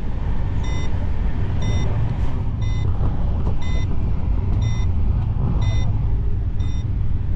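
Express train running at about 127 km/h, heard from inside the passenger coach as a steady low rumble. A short high electronic beep repeats about once a second over it.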